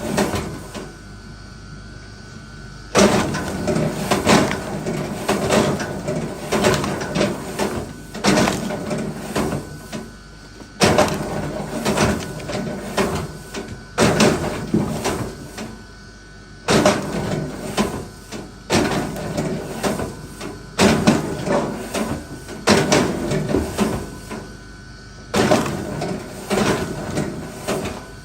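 Pieces of wood knocking and clattering together in repeated bursts, roughly one every second or two, with short pauses between runs.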